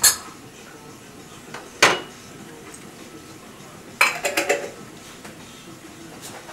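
Sharp clinks and knocks of hard objects: one at the start, another about two seconds in, and a quick run of several clinks about four seconds in.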